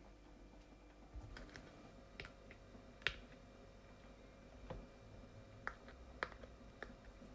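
Light, irregular clicks and knocks from kitchen work, about eight over several seconds, the sharpest about three seconds in.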